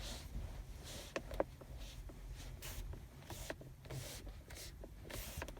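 Hyundai Solaris's factory centre armrest, slid out, pressed and worked by hand: quiet, repeated plastic rubbing and small clicks, with one sharper click about a second and a half in. The creak the owner is trying to show does not come through plainly.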